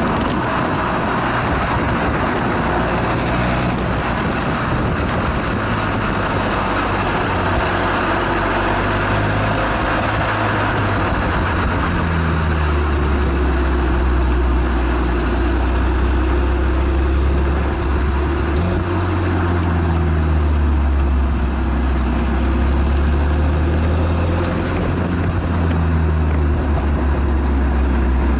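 Renault Mégane GT220's turbocharged four-cylinder exhaust, heard from the rear of the car at speed on a circuit, its pitch rising and falling several times as the driver accelerates, lifts and changes gear. A steady hiss of wind and tyre noise runs under it.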